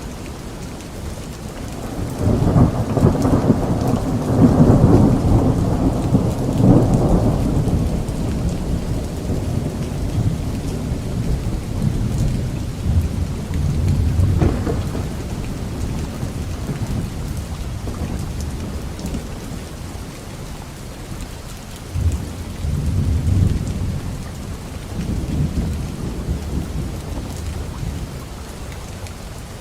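Thunderstorm: steady rain falling, with a long roll of thunder about two seconds in that fades away, a sharper crack and rumble about halfway through, and smaller rumbles near the end.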